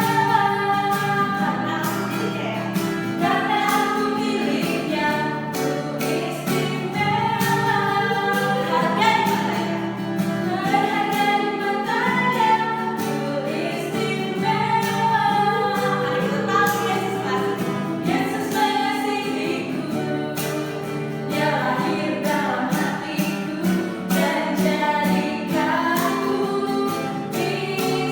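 Christian children's worship song: singing voices over instrumental backing with a regular beat.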